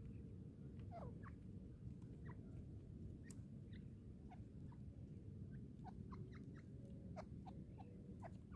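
Faint, short chirping notes from a francolin (teetar), a dozen or more scattered irregularly over a low steady rumble.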